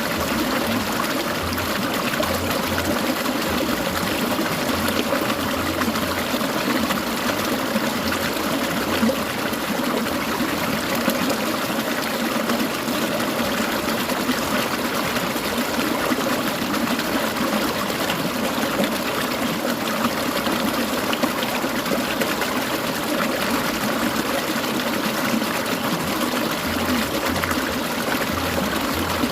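Clear mountain stream trickling and babbling, a steady, even rush of water.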